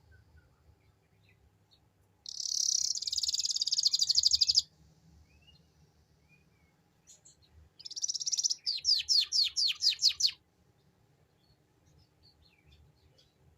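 Domestic canary singing in the ngeriwik style: a fast, fine trill lasting about two seconds, then after a pause another trill that breaks into a run of about eight repeated down-slurred notes. Faint chirps come in between.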